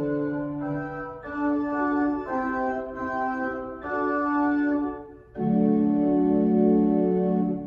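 Church organ playing sustained chords that change every second or so, ending on a louder held final chord that is released near the end.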